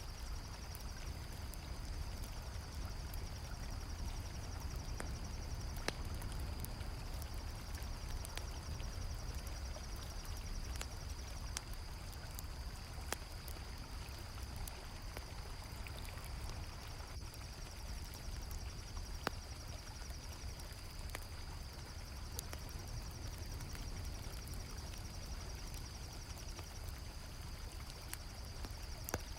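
River water flowing steadily, with a campfire crackling in scattered sharp pops and crickets chirping in a continuous high trill.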